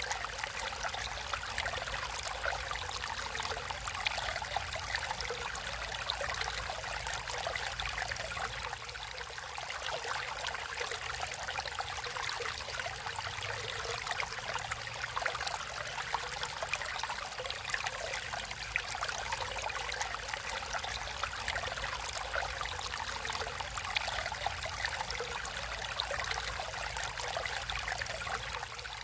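Natural stream water flowing and trickling steadily, with fine splashes and droplet sounds throughout.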